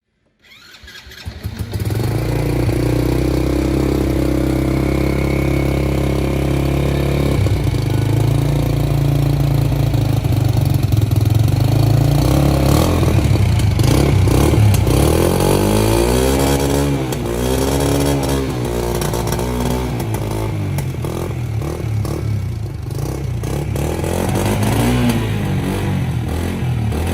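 Small underbone motorcycle engine starting up and idling, then blipped up and down in pitch several times in the middle before settling back to a steady idle.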